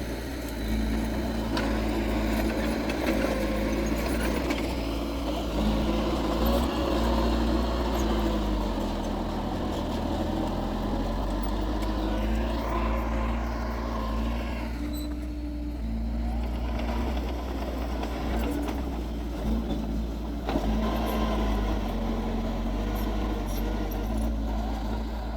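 Diesel engine of heavy earthmoving machinery running continuously, its pitch stepping up and down as it works.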